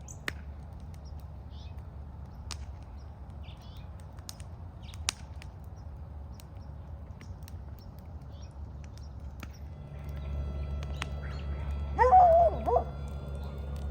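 Birds chirping over a steady low rumble, with a louder harsh bird call about twelve seconds in. A faint steady whine joins the rumble shortly before that.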